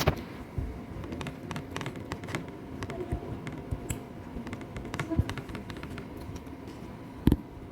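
Cats chewing fish: irregular small clicks and smacks of eating, with one louder knock near the end.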